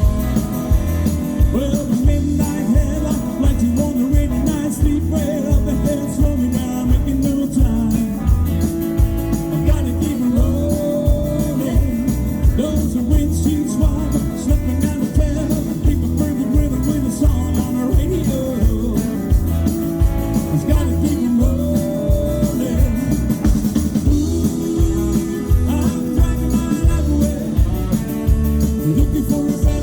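Live band playing an instrumental passage of a country-rock song: a steady drum and bass beat under a melodic lead line.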